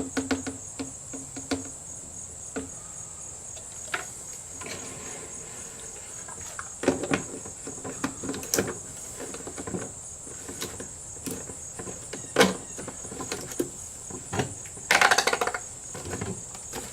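Steady high-pitched cricket chirring, with intermittent clicks, knocks and rattles from handling fuel and oil containers while two-stroke fuel is mixed. A denser clatter comes near the end.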